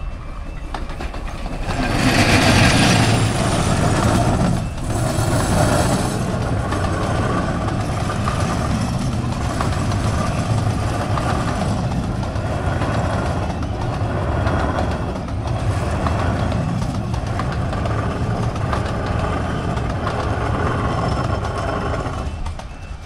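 A 15-inch-gauge Romney, Hythe & Dymchurch Railway miniature train passing over a level crossing. It is loudest about two to four seconds in as the locomotive goes by. The passenger coaches then roll past with a steady rumble and a repeating clatter of wheels, which dies away near the end.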